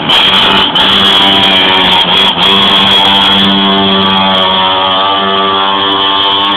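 Minibike's small engine running with a steady buzzing note, close and loud, with two brief dips in level under a second in and about two and a half seconds in.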